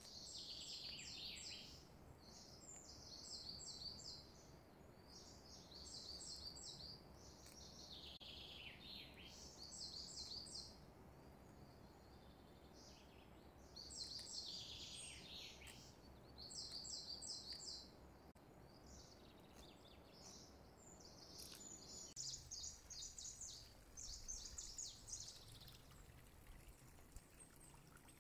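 Faint bird chirping in short, rapid phrases that recur every two or three seconds, some dropping in pitch, over a low steady background hiss.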